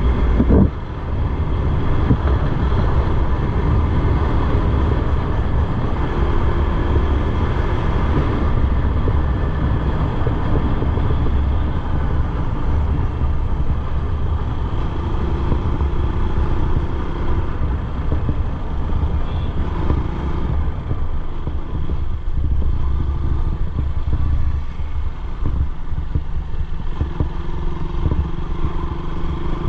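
Motorcycle engine running on the move, under a heavy, steady low rumble.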